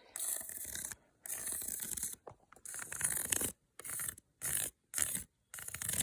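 Scratchy rubbing strokes of a rough natural object worked close to the microphone: two long strokes of about a second each, then five shorter, quicker ones.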